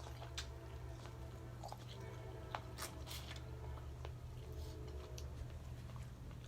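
A person chewing and biting food close to the microphone, with scattered short wet clicks and snaps, over a steady low hum.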